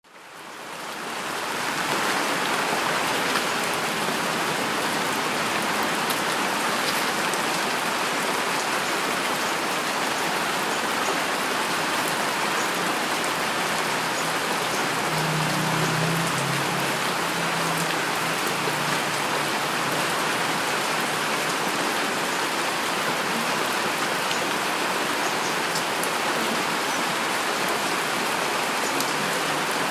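Heavy rain falling steadily: a dense, even hiss with scattered drop ticks, fading in over the first two seconds. A brief low rumble comes about halfway through.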